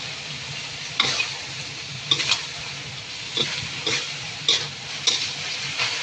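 Chicken wings in soy sauce sizzling in a frying pan while a spatula stirs them, with a steady frying hiss and repeated short knocks and scrapes of the spatula against the pan.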